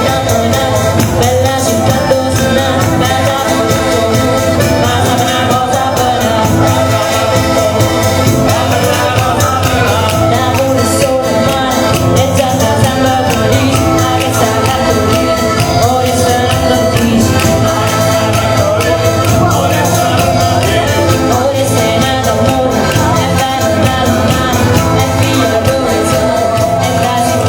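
Southern Italian folk music from a band of frame drums, guitar and accordion, with a steady tambourine-jingle rhythm and singing.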